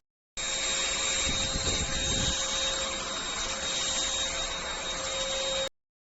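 Eluxgo SVC1016 vacuum cleaner running steadily: an even rush of air with a steady high whine. It starts abruptly just after the beginning and cuts off sharply near the end.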